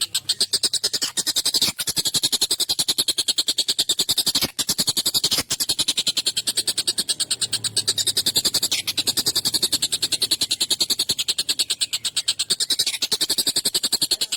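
Tengkek buto kingfisher calling in a long, fast, harsh rattle of about ten notes a second, broken only briefly twice.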